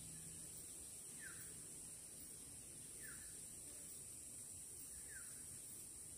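Forest ambience: a bird gives a short falling whistled note three times, about two seconds apart, over a steady high-pitched insect drone.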